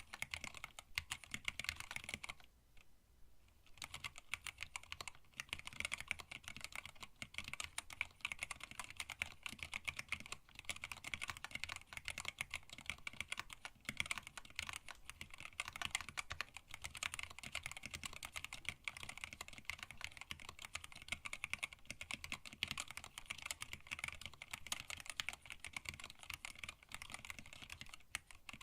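Continuous fast typing on a hand-wired split mechanical keyboard with Tealios linear switches, an acrylic case and plate, and blank PBT keycaps. The keystrokes come in a dense rapid stream, with a short pause about two seconds in.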